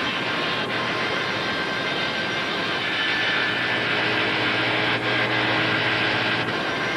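Power saw running steadily as a cedar canoe strip is fed through it against a pattern, cutting the strip's shaped edge. It is heard through the hiss of a worn, many-times-copied VHS recording.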